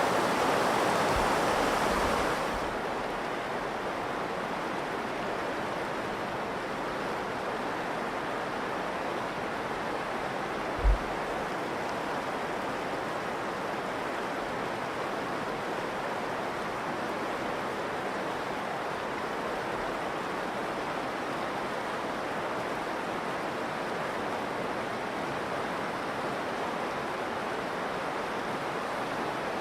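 Virgin River water rushing steadily through the canyon. The rush is louder and brighter for the first two or three seconds, then settles to an even, softer level. There is one brief low thump about eleven seconds in.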